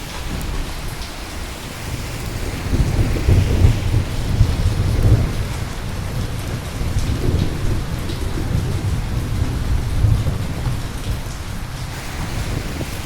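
Steady rain with a long, low rumble of thunder that swells a few seconds in and rolls on, rising briefly again near the end.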